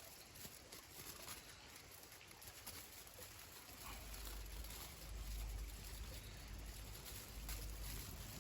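Faint scattered clicks and light scraping of tongs gathering cold charcoal and ash, with a low rumble coming in about four seconds in.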